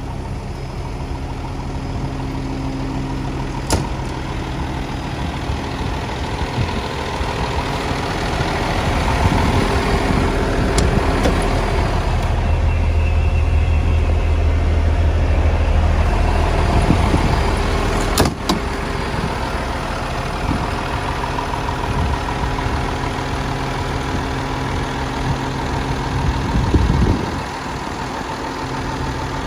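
Rear-loader garbage truck's engine idling steadily, growing louder and busier for several seconds in the middle, with a sharp clank about four seconds in, another at about eighteen seconds, and a brief surge near the end.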